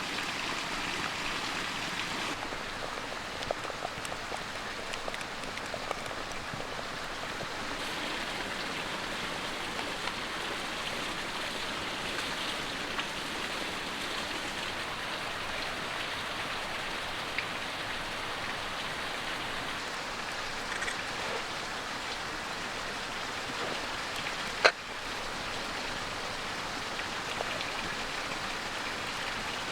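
Steady rushing and babbling of a small creek, with a few faint ticks and one sharp click about 25 seconds in.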